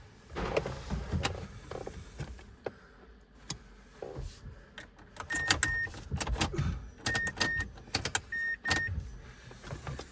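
Car key being worked in the ignition of a Mazda 3, with clicks and a jangling key ring. An electronic chime of two short beeps sounds three times, about a second and a half apart, in the second half.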